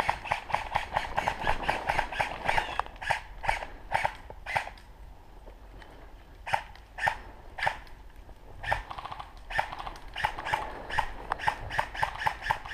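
Airsoft guns firing a rapid run of single shots, several a second, with a pause of about a second and a half near the middle.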